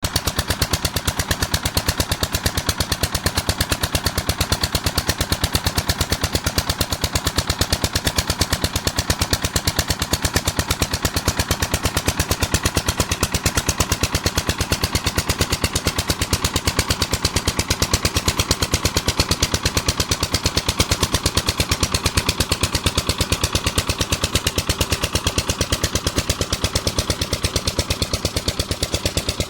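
Stationary diesel engine of a village tubewell running steadily, a rapid, even beat of loud exhaust pulses.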